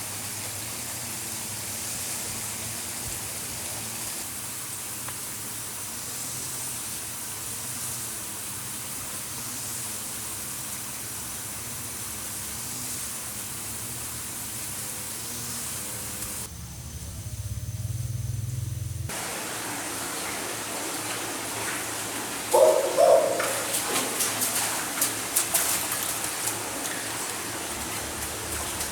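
Stream water running steadily, a continuous rushing hiss. A brief low rumble comes in past the middle. Near the end a burst of sharp knocks and splashes cuts through the flow.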